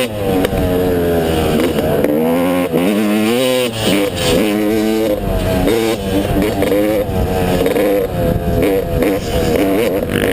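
Motocross dirt bike engine revving up and down as the throttle opens and closes. Its pitch climbs and drops several times, with sharp drops just after the start and about four seconds in.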